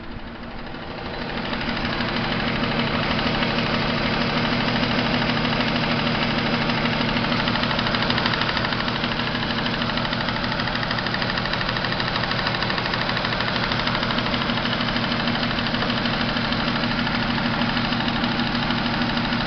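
Volkswagen Touareg V6 engine running at a steady speed, growing louder about a second and a half in and then holding an even, pulsing note.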